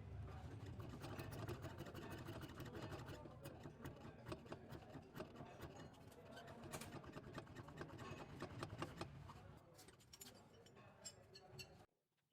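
A car driven over rough ground, with a low rumble and many irregular knocks and rattles from the suspension: the knocking of bad shock absorbers. It cuts off suddenly near the end.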